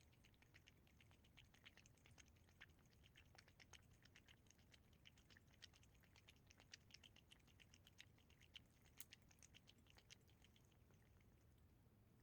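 A cat eating: faint, quick, wet clicks of its mouth and tongue working at the food, several a second, thinning out shortly before the end.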